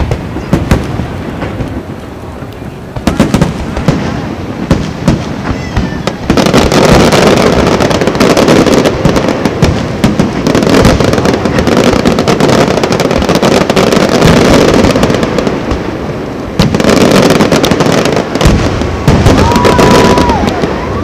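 Aerial fireworks shells bursting in a loud barrage of sharp bangs and crackle, scattered at first and becoming dense and nearly continuous from about six seconds in.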